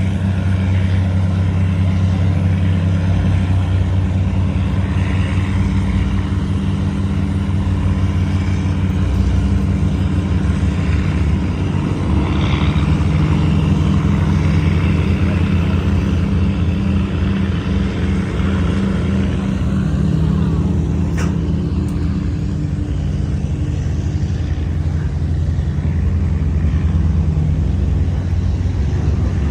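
Tugboat's diesel engine running steadily, a continuous low drone, while the tug tows a loaded cargo barge against a strong river current.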